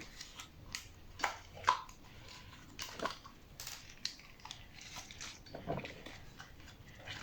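Washing machine drain pump's plastic housing and magnet rotor clicking and scraping irregularly as the rotor is pushed back inside by hand.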